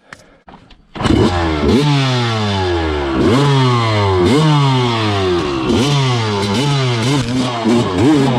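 Dirt bike engine revved in repeated blips, each rising sharply and sliding back down, about one a second. It starts abruptly about a second in.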